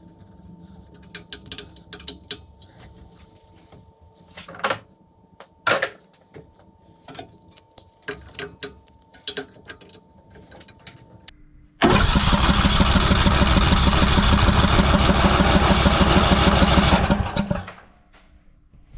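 Small clicks and knocks, then, about twelve seconds in, the riding mower's Briggs & Stratton engine suddenly turns over loudly with a fast, even beat for about five seconds before it stops and dies away.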